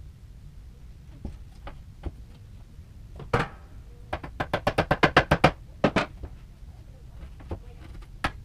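Hammer knocks on wood during furniture assembly: one hard strike, then a fast even run of about a dozen knocks, then a few single knocks.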